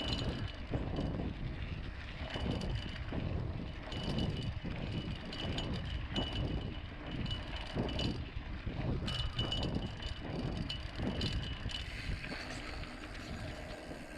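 Mountain bike riding along a dirt road: an uneven, low rumble of the tyres on the ground, with wind on the microphone.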